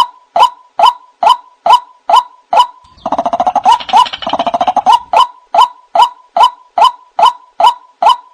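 White-breasted waterhen calling: a monotonous series of loud 'kwak' notes a little over two a second, broken about three seconds in by a two-second run of rapid, chattering croaks before the steady series resumes.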